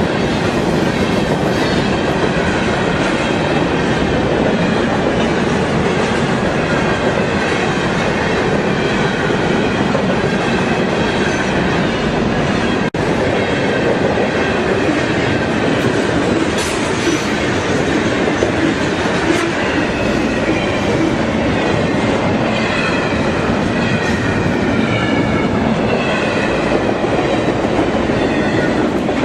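Florida East Coast Railway freight cars rolling past at speed, a steady loud clatter of wheels on rail with faint wavering wheel squeal.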